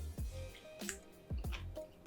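Close-miked wet chewing and mouth sounds, a few short sharp smacks about half a second apart, over soft background music.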